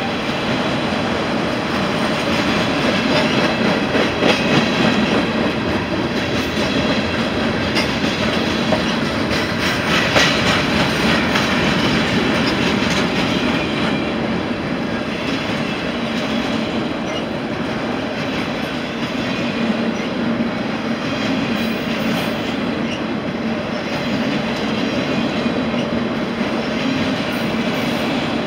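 Freight train of autorack car carriers rolling past at close range: a steady rumble and clatter of steel wheels on the rails, a little louder around four and ten seconds in.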